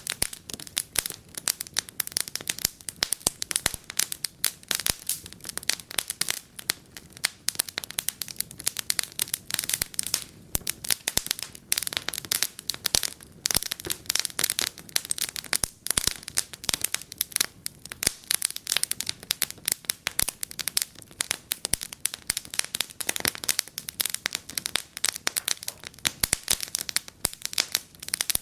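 Wood fire in a fireplace crackling, with many small irregular snaps and pops each second.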